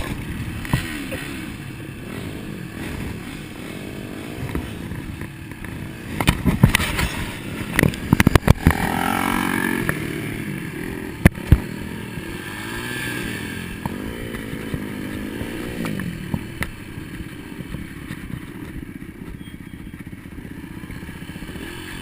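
Dirt bike engine running and revving up and down, its pitch rising and falling repeatedly. A burst of sharp knocks and clatter comes about six to eight seconds in, and two sharp clicks a little past eleven seconds.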